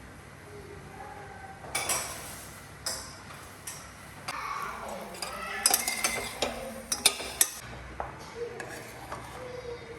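Kitchen utensils being handled: dishes and cutlery clinking and knocking in an irregular series of sharp clatters, busiest about six to seven and a half seconds in.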